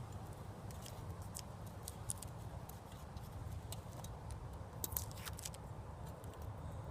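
Light, irregular clicks and taps of wooden beehive parts and frames being handled, over a low steady rumble. The sharpest clicks fall about two seconds in and about five seconds in.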